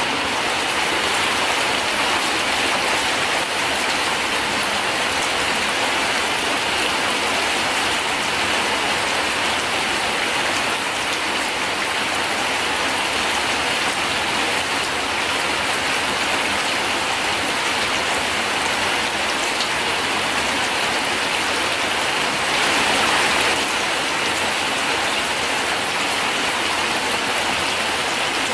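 Heavy tropical rain pouring down steadily, a dense, even hiss of rain on the ground and the surrounding surfaces, swelling slightly near the end.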